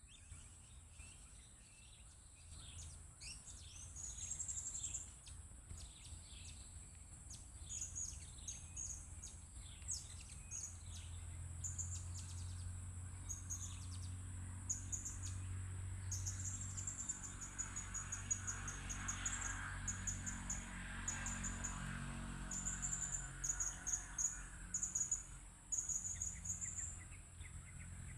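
Blue-crowned hanging parrots giving short, high, squeaky calls again and again over a steady high-pitched insect drone, with a low rumble underneath.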